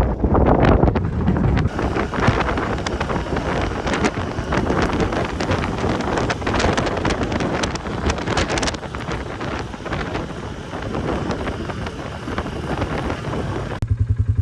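Strong gusting wind buffeting the microphone, loud and uneven, in a storm front moving in. Near the end it gives way abruptly to an ATV engine idling.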